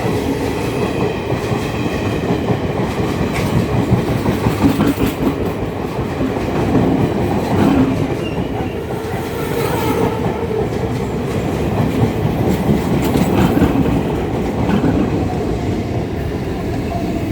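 Train passing close by: a steady loud rumble with wheels clattering over the rail joints.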